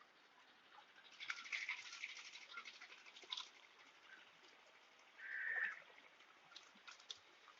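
Faint splashing and crackling of water as a crowd of hybrid magur catfish feed at the pond surface, with a dense spell of splashes from about a second in and a short louder splash a little past the middle.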